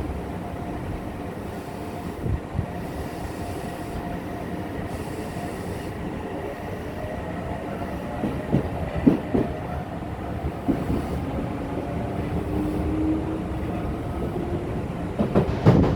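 Odakyu 8000 series train heard from inside a motor car: steady running rumble with the thin electronic whine of its Mitsubishi IGBT-VVVF inverter and traction motors, one tone rising in pitch near the end. Wheels knock over rail joints in a cluster about halfway through and again just before the end.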